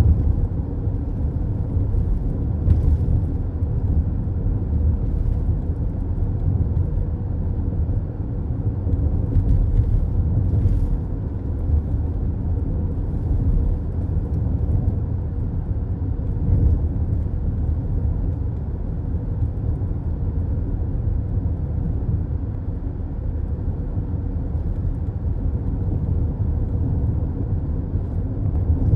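Car cruising at highway speed, heard from inside the cabin: a steady low rumble of tyres and engine.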